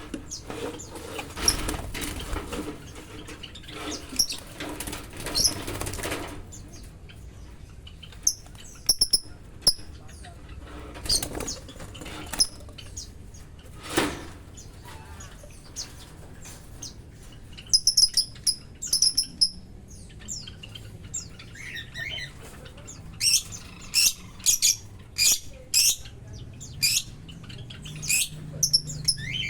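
Lovebirds flapping and chirping: fluttering and rustling for the first few seconds, then short, high chirps in scattered runs, mixed with sharp clicks as the birds move about.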